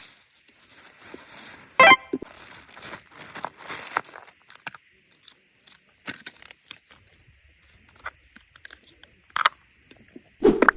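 Packaging being handled while an electric kettle is unboxed: rustling, crinkling and tearing for the first few seconds, then scattered light clicks and knocks, with sharper knocks about two seconds in and near the end.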